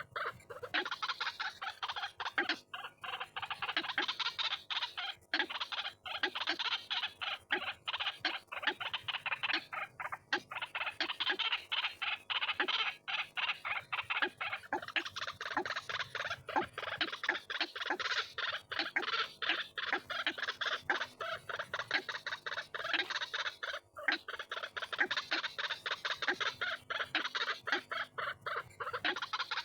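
White-breasted waterhen calling without pause: a dense, rapid run of repeated calls. This is the kind of call recording used to lure waterhens.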